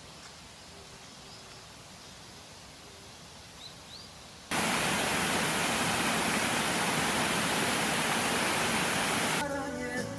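Quiet outdoor background with two short high chirps, then, about four and a half seconds in, the loud steady rush of a mountain valley stream cuts in suddenly and holds for about five seconds. Music begins near the end.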